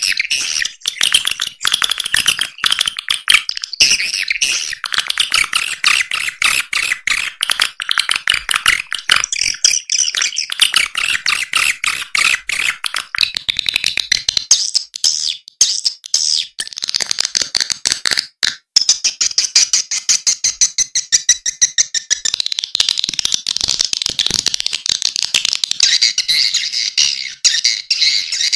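Swiftlet lure-call recording: a dense, fast, unbroken chatter of many swiftlets twittering and chirping, high-pitched, with one brief break about two thirds of the way through. This is the kind of call track played through tweeters to draw swiftlets into a nesting house.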